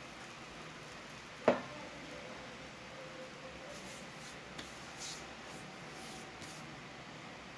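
A single sharp knock about a second and a half in, over a faint steady hiss, with a few soft, faint scrapes later on.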